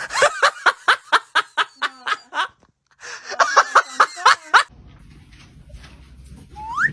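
A person laughing hard in two bouts of rapid, repeated ha-ha pulses. This is followed by a quieter stretch and a short rising squeak near the end.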